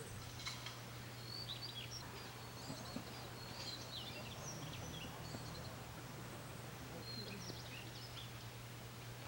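Small birds chirping and trilling in short high calls, busiest from about one and a half to five seconds in and again near eight seconds, over a steady low hum.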